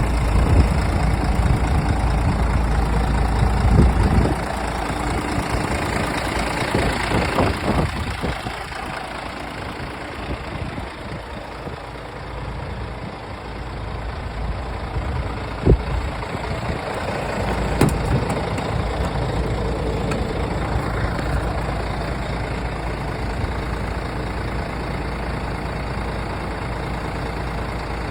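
Scania R450 truck's 13-litre straight-six diesel engine idling steadily, with two short sharp clicks a couple of seconds apart about two-thirds of the way through.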